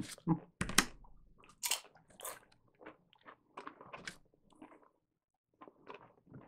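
Close-up crunching and chewing of chips: an irregular run of sharp crunches, the loudest in the first second, with a short lull about five seconds in.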